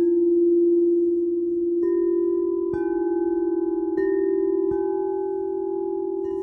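Singing bowls ringing: one low tone sustains with a slow, steady wavering, while bowls are struck four times, each strike adding a higher ringing tone that lingers.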